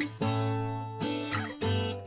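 Background music: strummed acoustic guitar chords, changing every second or so.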